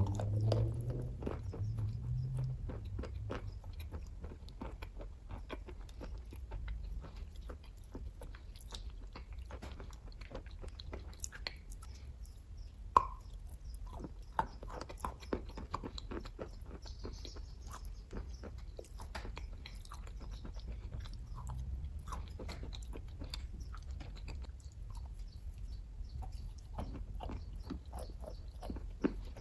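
Close mouth sounds of someone chewing kaju katli, a soft cashew fudge: a steady run of small wet clicks and smacks, with one sharper click about halfway through.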